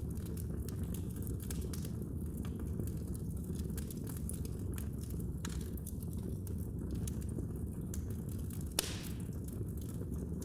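Wood fire crackling in a fireplace: a steady low rumble of burning with scattered small snaps and pops, and one sharper pop near the end.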